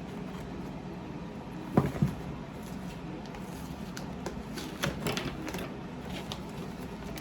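Light knocks and clicks of a mail-delivery package being handled and opened: two sharper knocks about two seconds in and a cluster of lighter clicks around five seconds, over a steady low room hum.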